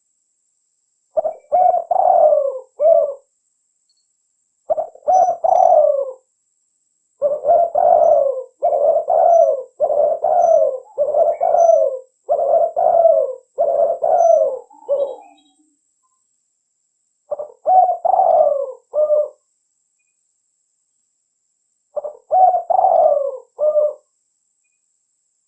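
Spotted dove (tekukur) cooing over and over in short multi-note phrases, grouped into bouts. A long unbroken run of calls fills the middle, with shorter bouts and silent gaps of a second or more before and after.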